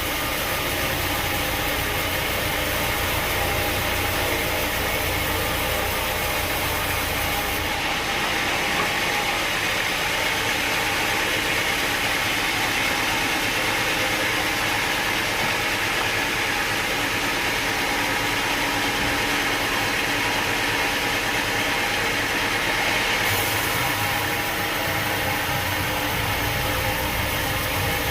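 Sawmill machinery running steadily, a motor-driven mill with a constant mechanical drone and hiss. A low rumble under it drops away about eight seconds in and comes back near the end.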